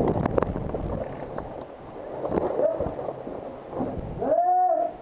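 Irregular clatter and knocks that die out about half a second in. Then a short wordless voice sound, and about four seconds in a loud, brief shout or yell with a rising and falling pitch.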